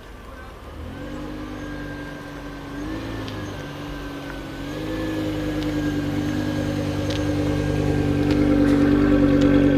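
A BMW M6's 5.0-litre V10 with an aftermarket KKS exhaust, running at low, fairly steady revs and growing steadily louder. There is a brief small rise in pitch about three seconds in and a step up in pitch near five seconds.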